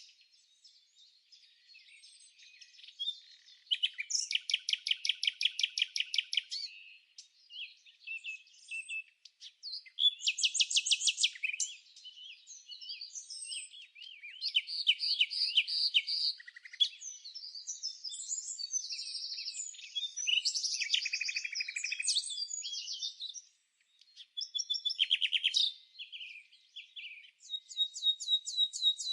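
Songbirds singing: a run of song phrases with gaps between them, several of them fast trills of evenly repeated high notes, mixed with varied chirps and warbles.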